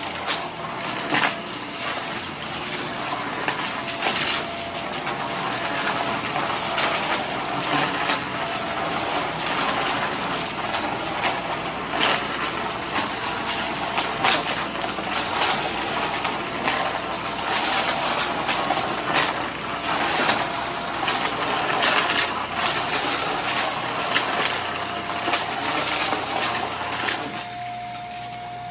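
Vacuum cleaner running and sucking up dry debris, with dense crackling and rattling and many sharp clicks as bits are pulled through. Near the end the debris sounds stop, leaving only the steady motor whine.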